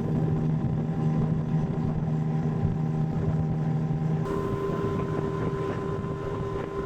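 A boat's motor running steadily at an even pitch; the tone changes abruptly about four seconds in.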